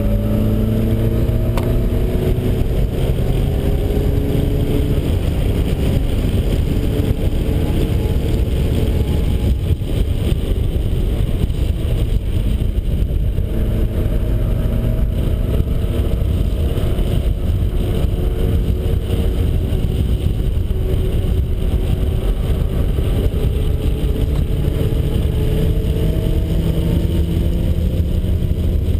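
Turbocharged 1.9 L stroker four-cylinder of a 1991 Mazda Miata pulling hard at speed, its pitch climbing again and again as it accelerates through the gears. Heavy wind and road noise run underneath.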